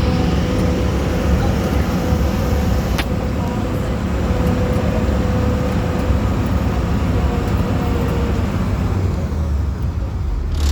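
Amphibious duck boat's engine running steadily as it drives, a continuous low rumble with a faint steady whine, heard from the open passenger deck; a single sharp click about three seconds in.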